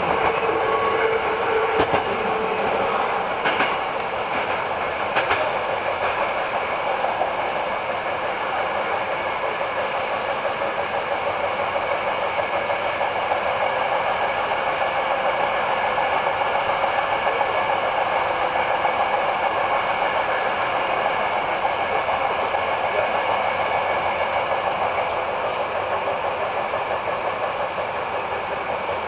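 Hankyu 8000 series electric commuter train running, heard from inside the leading car: a steady rumble of wheels on rail, with a few sharp rail-joint clicks in the first several seconds. It gets a little quieter near the end as the train runs into a station.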